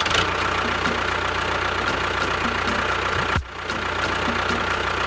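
Steady engine-like running noise with a low hum and a constant mid-pitched tone. It briefly drops out about three and a half seconds in, just after a short falling tone, then resumes.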